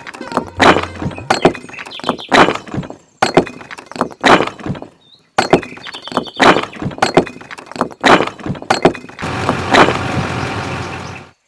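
A run of sharp knocks and clacks, about one or two a second, with a few sudden cut-offs in between.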